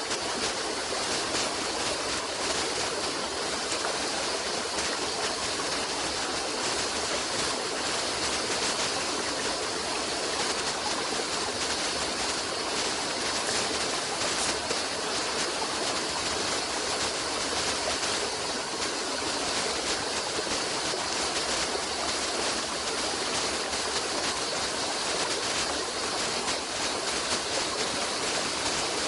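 A stream's running water rushing steadily: an even, bright hiss with no breaks or separate splashes.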